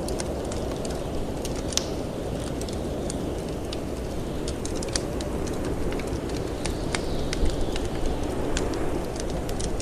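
Wood fire crackling in a fireplace, irregular sharp pops and snaps several times a second, over a steady low rush of wind.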